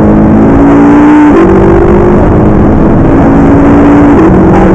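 McLaren MP4-12C's twin-turbo V8 pulling hard under full acceleration. The engine note climbs steadily and drops sharply with an upshift about a second in, then climbs again and drops with a second upshift near the end.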